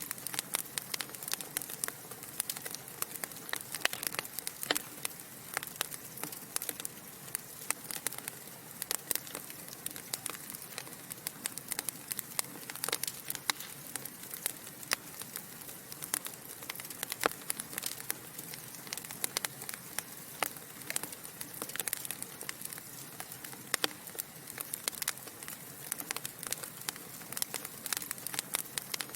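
Wood fire burning in a fireplace: logs crackling and popping in dense, irregular sharp snaps over a steady soft hiss.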